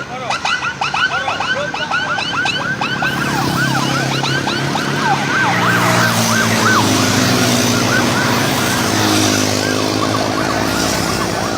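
Emergency vehicle siren yelping in fast, repeated rising-and-falling sweeps that fade after about six seconds, while the low, steady running sound of a vehicle engine grows louder from about four seconds in.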